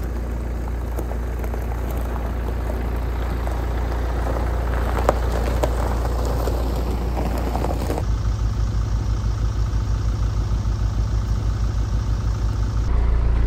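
A Mini Countryman's engine idling: a steady low drone that takes on a quick, even pulsing about eight seconds in.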